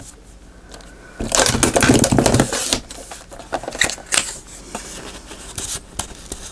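Paper card being cut and handled: a loud stretch of rustling and crinkling about a second in, then lighter rustles and small taps.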